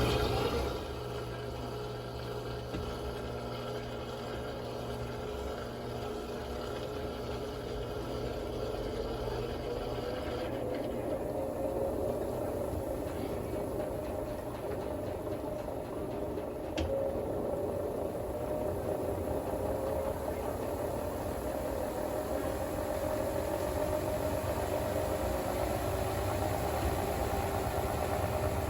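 Brastemp Clean 10 kg top-load washing machine in its final rinse: the water inflow stops about half a second in, leaving the machine's motor and drum running with a steady hum.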